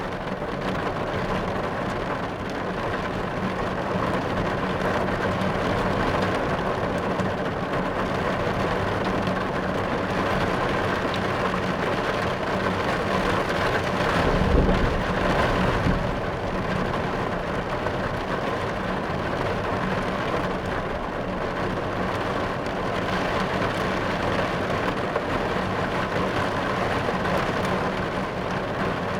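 Steady heavy rain falling on a car's roof and windshield, heard from inside the car, with a low roll of thunder about halfway through.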